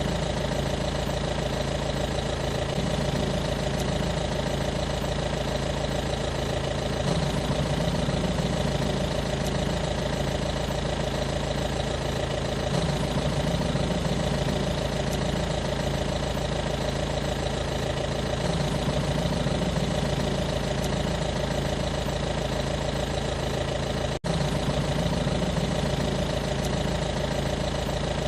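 An engine running steadily at idle, with an even hum and a slow wavering pulse, cut off for a split second about three-quarters of the way through.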